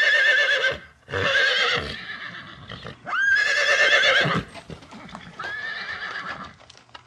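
A horse whinnying four times, each neigh a loud call with a wavering, quavering pitch, the last one quieter. Faint knocks fall between the later calls, like hooves shifting.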